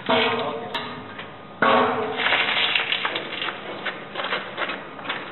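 Metal being struck: two sharp clanks, right at the start and about a second and a half in, each ringing on briefly, followed by a run of lighter, irregular knocks and clicks.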